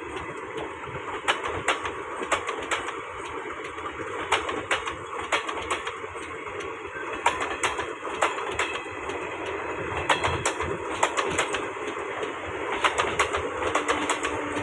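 Passenger train running on the rails: a steady rumbling noise with many irregular sharp clicks of the wheels over the rail joints.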